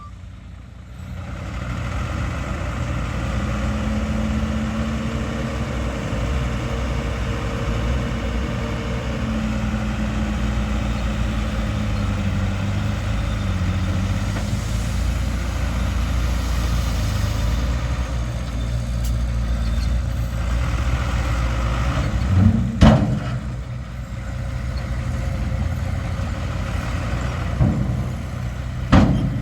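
Heavy diesel earthmoving machinery running steadily with a low engine rumble. There is a sharp knock about 23 seconds in and another near the end.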